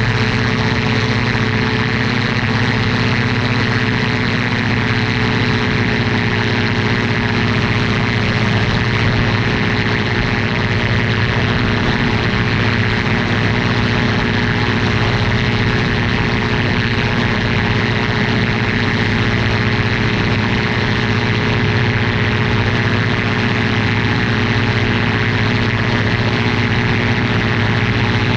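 Ultralight aircraft's engine and propeller running steadily: a constant, loud drone that shifts slightly in pitch a few seconds in.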